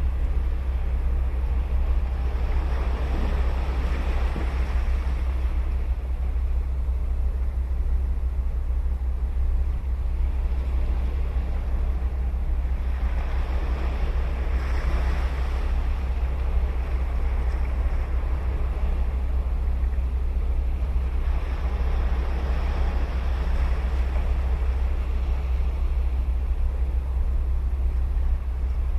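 Ocean waves breaking on a sandy beach, three waves swelling and washing in, over a steady low rumble.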